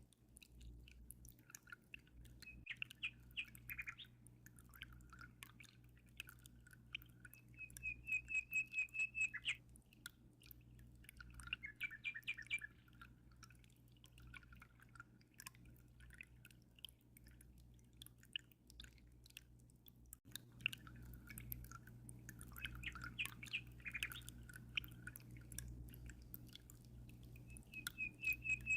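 Small songbirds chirping and twittering in short phrases, with a fast trill of rapid high notes about eight seconds in and again at the end. A low steady hum and faint water dripping run beneath.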